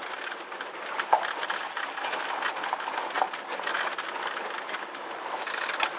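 1965 Ford Galaxie 500 on the move: steady engine and road noise with loose clicks and rattles, and two short squeaks about a second and three seconds in.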